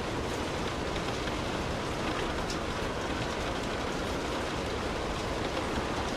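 Steady rainfall, a continuous even hiss with a few separate drop ticks now and then.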